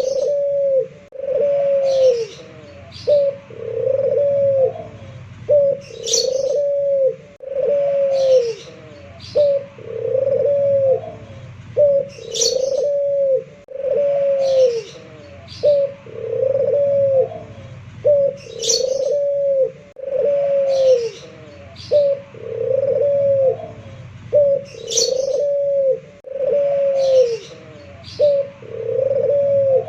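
A local puter pelung dove (Barbary dove) cooing over and over: phrases of short clipped notes and drawn-out coos that rise and then fall, repeating about every six seconds.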